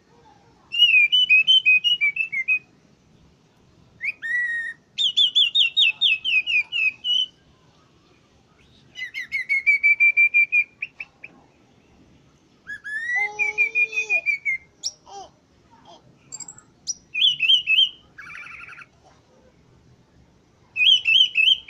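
Rote punglor thrush singing: phrases of fast, repeated high notes, each a second or two long, broken by short pauses.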